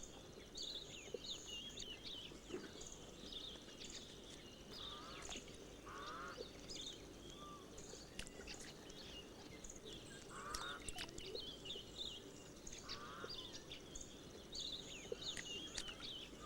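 Forest ambience of many small birds chirping and twittering, with a short raspy call recurring every few seconds.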